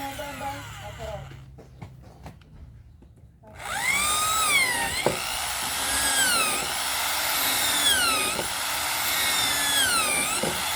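Electric drill boring into a wooden board: after a short pause it starts again about four seconds in, its whine rising and sagging in pitch roughly every two seconds as the motor loads and recovers in the wood.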